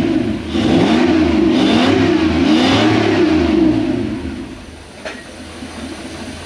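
Toyota 1UZ-FE V8 engine running, its pitch rising and falling over and over for about four seconds, then dropping to a quieter, steady low note.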